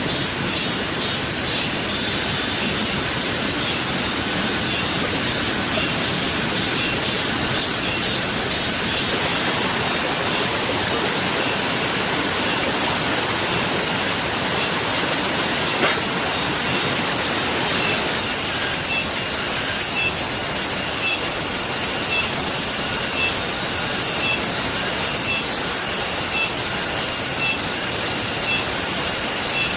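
Steady rain making an even, loud hiss. In the second half a high-pitched chirp repeats at an even pace, a little more than once a second.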